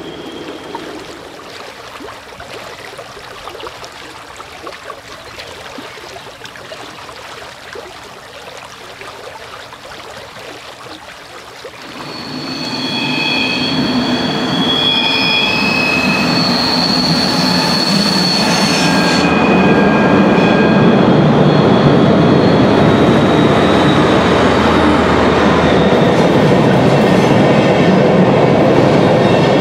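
A class 218 diesel-hydraulic locomotive with n-coaches approaches. The sound is quieter for about the first twelve seconds, then grows loud. For several seconds there is a high-pitched wheel squeal like an old tram, as the wheel flanges run against the outer rail on a tight curve. Then comes a loud steady rumble and clatter as the train passes.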